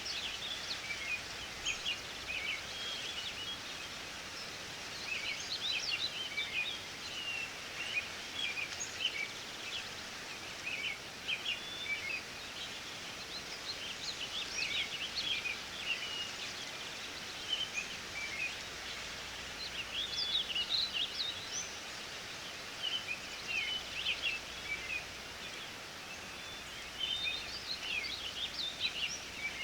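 Songbirds singing: bursts of quick, high chirps and short whistled notes every few seconds over a steady outdoor hiss.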